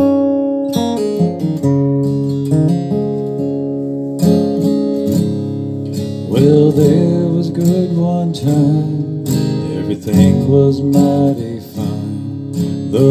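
Gibson J-45 Standard acoustic guitar played in a slow ballad, with strummed chords and single notes ringing. A solo voice sings along about six seconds in and again near the end.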